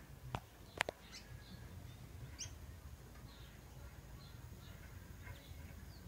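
Small birds chirping in the trees, short high calls scattered throughout, with two sharp clicks about half a second apart near the start.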